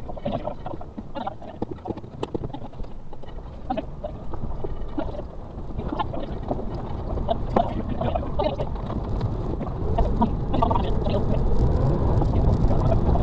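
Suzuki Carry kei truck's 660cc engine running, heard from inside the cab as it drives over a rough forest track, with many short knocks and rattles from the bouncing truck. The engine rumble grows louder about ten seconds in.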